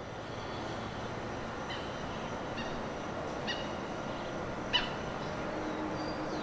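A bird calling in short chirps four times, roughly a second apart, the last the loudest, over a steady hiss of open-country ambience.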